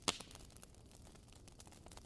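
Burning firewood crackling, with one loud pop just after the start and scattered small snaps through the rest.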